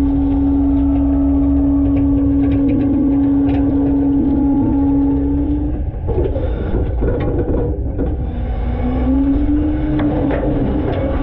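Front-load garbage truck running: a low engine rumble under a steady whine. The whine breaks off about halfway through amid rattling and clatter, then returns a little higher near the end.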